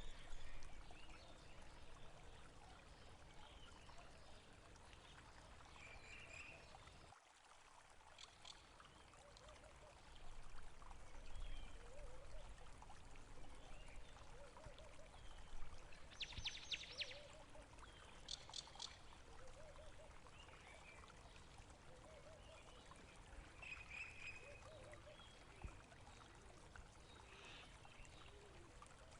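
Faint running, trickling water with scattered small bird chirps and a couple of short rattles about halfway through.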